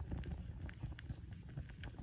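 Wood fire crackling, with irregular small pops and snaps over a low rumble.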